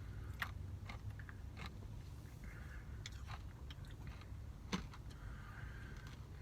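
Someone eating a spoonful of Blizzard soft-serve: chewing and scattered short clicks of the spoon against the cup, one sharper click about three-quarters of the way through, over a low steady hum.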